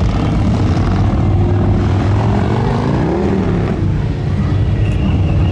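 Motorcycle engines running with a steady low rumble, one revving up and back down about three seconds in.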